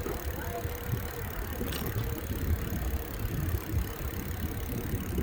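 Wind rumbling on the microphone and tyre noise from a moving bicycle, with a faint steady tone early on.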